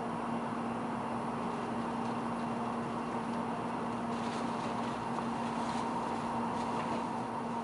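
Tokaido Shinkansen train moving out along the platform, heard from on board: a steady hum with a low drone and a higher steady tone, and a few faint clicks in the second half.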